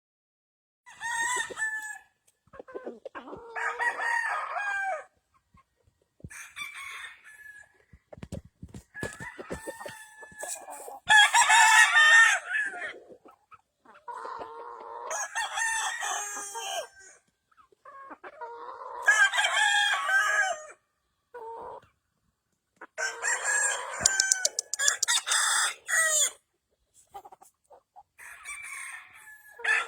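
Gamefowl roosters crowing one after another, about nine crows each a second or two long, with some clucking between.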